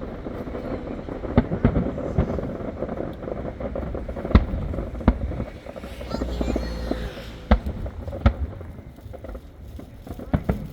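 Aerial firework shells bursting high overhead: separate sharp booms at irregular intervals, the loudest about four seconds in and again near eight seconds, over the murmur of an outdoor crowd.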